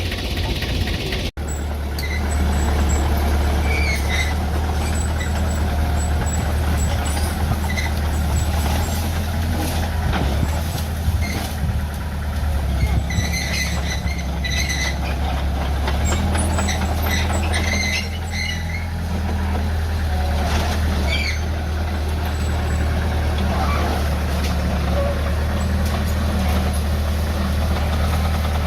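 Diesel engine of heavy earthmoving machinery, a bulldozer or dump truck, running steadily under work, with short high-pitched squeals now and then.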